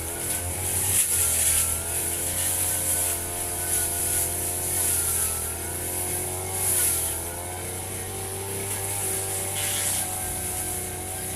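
Firman FGB 528 petrol brush cutter running while cutting grass, its engine note wavering up and down as it takes load, with a hissing swish rising and falling a few times.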